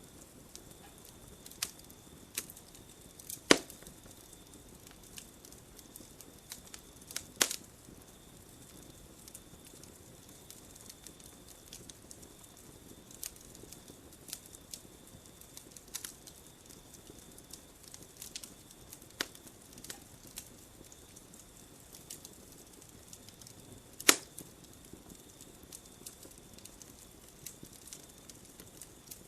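Campfire crackling: scattered small snaps and ticks from burning wood, with three loud sharp pops, about three and a half, seven and a half and twenty-four seconds in. A faint steady high tone runs underneath.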